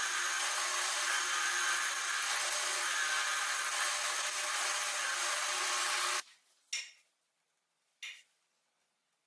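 A power tool runs steadily with a hissing, grinding noise, then cuts off suddenly about six seconds in. Two short scrapes follow about a second and a half apart.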